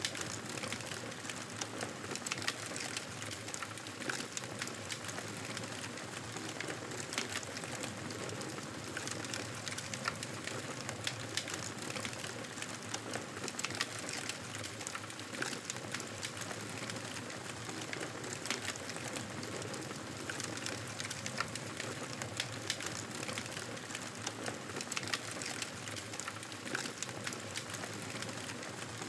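Campfire burning steadily, with frequent sharp crackles and pops over a constant hiss.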